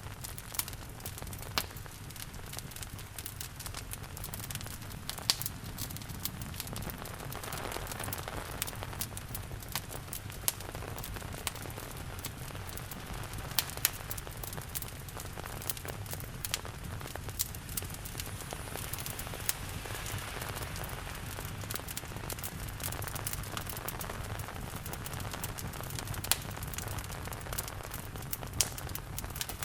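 Wood fire crackling and popping in a fireplace, with irregular sharp pops, over a steady hiss of falling rain.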